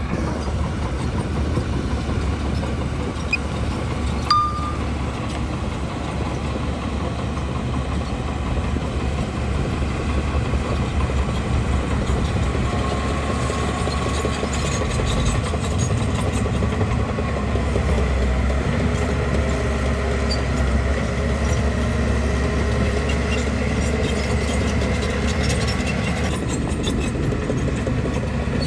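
Heavy diesel engine of a bulldozer running steadily at work, with a short sharp knock about four seconds in.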